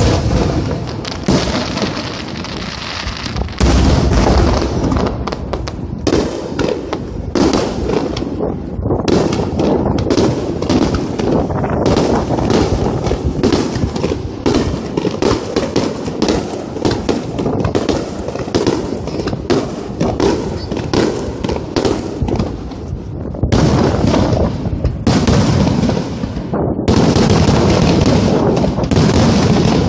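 A fireworks display: shells bursting in rapid, dense succession, with booms, crackling and popping overlapping one another. A bigger blast comes about three and a half seconds in, and the barrage grows heavier again from about 23 seconds.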